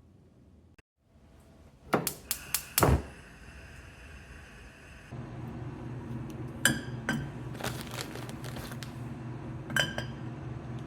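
Kitchen prep sounds: a quick run of sharp, ringing clinks of glass or dishware, then a steady low hum that starts about halfway through, with a few more clinks over it.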